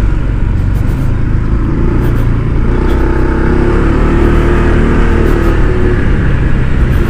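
Honda ADV 160 scooter's single-cylinder engine running steadily while riding, under a heavy low rumble of wind and road noise.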